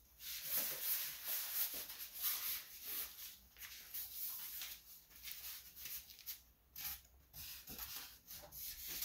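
Irregular rubbing and rustling of things being handled, coming and going in short spells.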